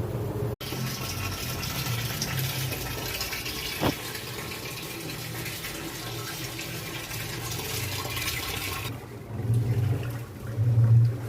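Water rushing steadily into a washing machine tub, as at the inlet fill, over a low hum. The rush stops about nine seconds in, and the hum then swells in bursts.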